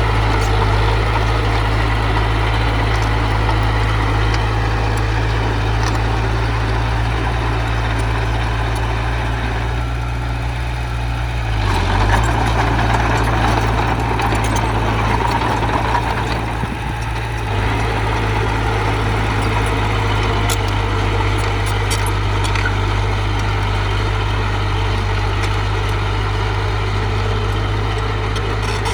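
Diesel engine of heavy earthmoving machinery running steadily. It grows louder for about five seconds near the middle, as if working under load, then settles back.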